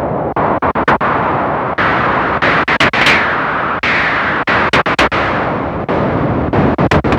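Geosync TB-Valhalla 303-style synthesizer playing a harsh, noisy patch: a hissing noise wash opened and closed by the filter, brightest about three seconds in, chopped by many sharp clicks and brief dropouts.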